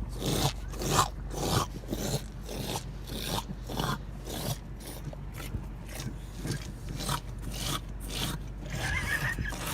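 An animal lapping water, giving rhythmic wet rasping strokes at about three a second.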